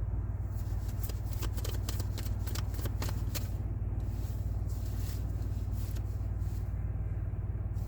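A deck of tarot cards being shuffled by hand: a run of quick riffling clicks, busiest in the first few seconds, over a steady low hum.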